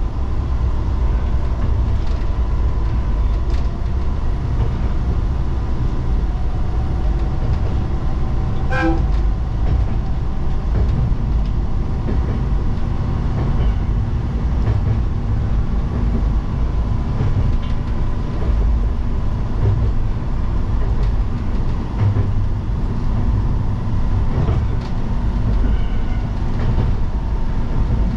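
Tsugaru Railway diesel train running along the line, heard from inside behind the driver's cab: a steady engine and wheel rumble, with one short toot of the horn about nine seconds in.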